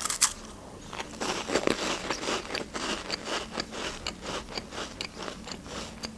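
A bite into a crisp cheese sandwich cracker right at the start, then crunchy chewing with many quick crackling crunches.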